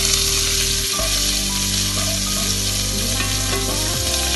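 Chopped shallots and curry leaves sizzling steadily in hot oil in a non-stick kadai, stirred and sautéed with a spatula.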